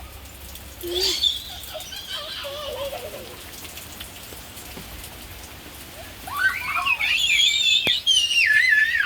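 Steady rain falling, with a brief rising squeak about a second in. From about six seconds in, loud high-pitched warbling calls wavering up and down.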